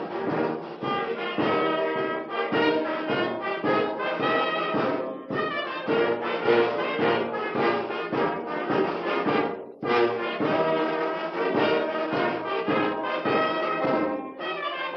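Instrumental passage of a club anthem with no singing, brass instruments to the fore, and a short break in the music about ten seconds in.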